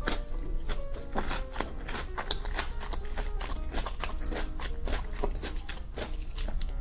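Background music with close-miked biting, crunching and chewing of food, a rapid irregular run of crisp clicks.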